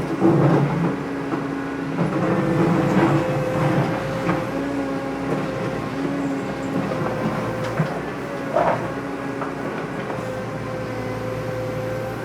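A small motor running steadily with a constant whine, a lower hum that cuts in and out, and a few knocks, including a clear one about nine seconds in.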